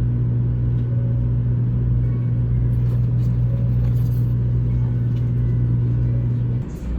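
Steady low hum over a deep rumble from a running vehicle; the hum cuts off abruptly near the end.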